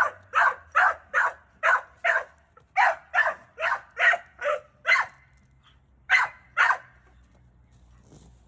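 A dog barking in a steady run of about a dozen loud barks, roughly two or three a second, then, after a short pause, two more barks before it stops.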